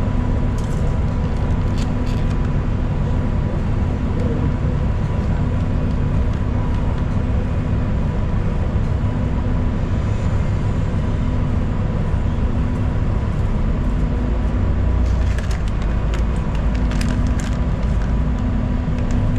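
Steady low drone of a city bus's engine and drivetrain heard from inside the passenger cabin, with a constant hum. A few short rattles come near the end.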